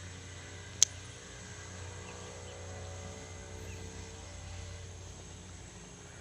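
Steady outdoor background noise with a low hum and a thin high whine, broken by one sharp click a little under a second in.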